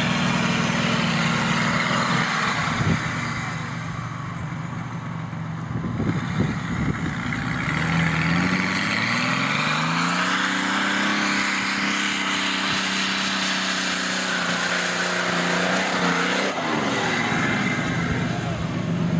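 Off-road 4x4's engine running under load. It revs up in pitch about halfway through, holds high and steady, then drops off suddenly near the end.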